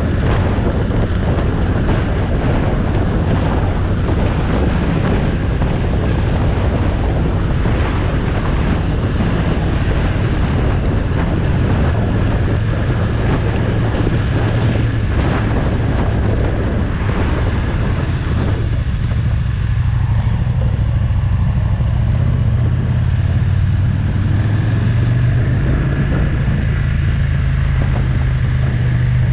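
Motorcycle on the move, recorded onboard: wind rushes over the microphone on top of the engine's steady low running note. About two-thirds of the way through, the wind noise dies down as the bike slows, leaving the engine note clearer, and its pitch rises a little near the end.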